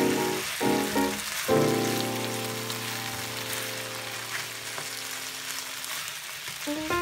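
Chicken and broccoli in sauce sizzling in a hot wok as they are stir-fried, a steady hiss under background music that holds one long chord through the middle.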